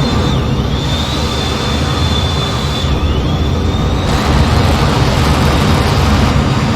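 Steady jet noise inside an F-15 cockpit in flight: a heavy, even rumble with a thin high whine that dips briefly twice.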